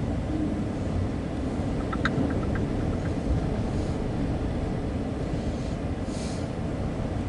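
Freight train of empty autorack cars rolling past: a steady low rumble of wheels on the rails, with a few faint ticks about two seconds in and a short burst of hiss about six seconds in.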